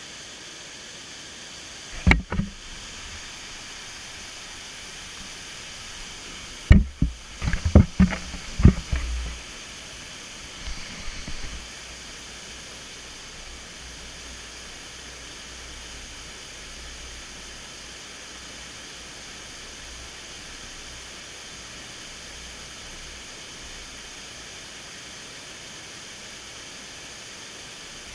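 Steady rushing noise of a waterfall, broken by a sharp knock about two seconds in and a quick run of louder knocks and bumps between about seven and nine seconds in.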